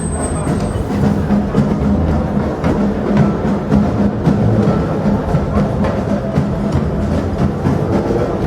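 Percussion ensemble playing live: a dense, fast stream of drum strokes over low drum tones.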